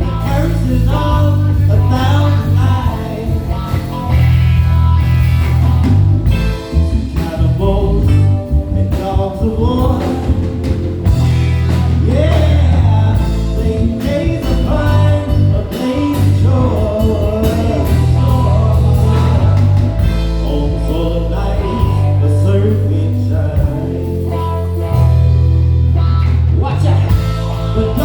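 Live band playing: bass guitar holding strong low notes that change every second or two, drums, and keys under a lead melody line that bends in pitch.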